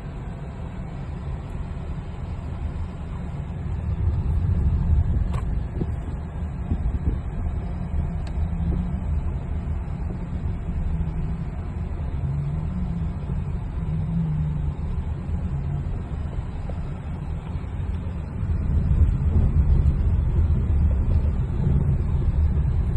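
Vehicle on a slow ride, a continuous low rumble that swells about four seconds in and again near the end.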